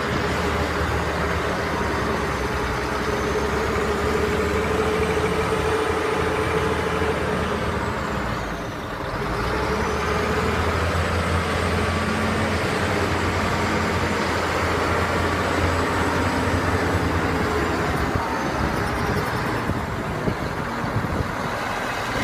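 Mercedes-Benz dump truck's diesel engine running steadily, easing off briefly about nine seconds in, with a faint high whine that rises and falls.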